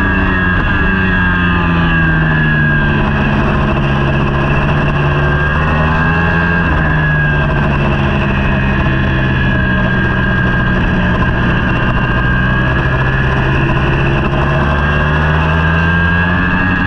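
Racing superbike engine at speed over a steady rush of noise. Its pitch falls over the first few seconds, holds fairly level through the middle, then climbs near the end.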